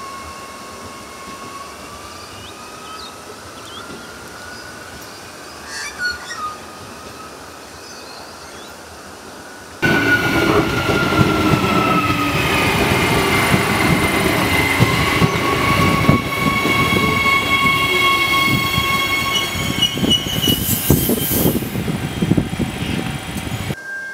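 An Adelaide Metro 4000-class electric train with a steady whine that rises in pitch, as when it gathers speed. About ten seconds in, this cuts to a much louder train passing close by on curved track, rumbling with high wheel squeal.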